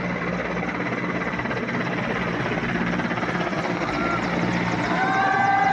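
Rotor blades of a formation of helicopters flying over, a steady pulsing clatter. Near the end a few steady held tones come in over it.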